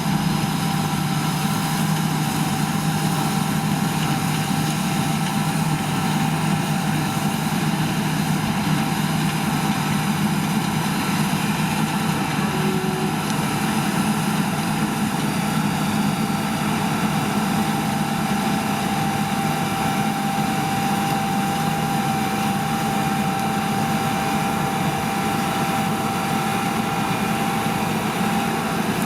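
Heavy farm machinery engine running steadily at constant speed, a low drone with a thin, unchanging whine above it.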